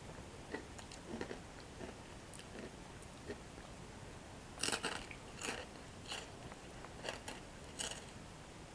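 Close-miked chewing of crunchy Dip Dip Bollycao toasted bread sticks with cocoa cream: a fairly quiet series of short, sharp crunches at uneven intervals, the loudest about halfway through.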